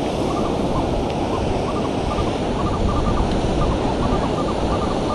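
Ocean surf washing steadily onto the beach, with wind buffeting the microphone. Faint short beeps at one pitch come and go throughout.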